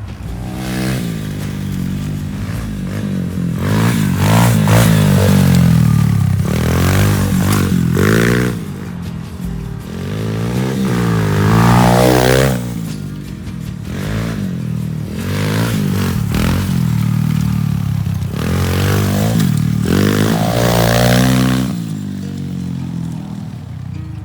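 Dirt bike engine being ridden hard, revving up and backing off over and over, its pitch climbing and falling with each burst of throttle. Background music plays along with it.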